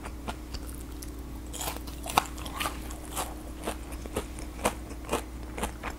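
Mouth chewing a crisp batter-fried rasgulla, its crunchy coating cracking in sharp crunches about twice a second.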